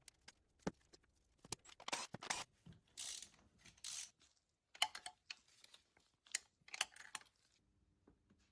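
A quick run of short clicks, knocks and brief scraping or rustling noises, like small objects being handled; it stops about seven seconds in, leaving a faint steady hum.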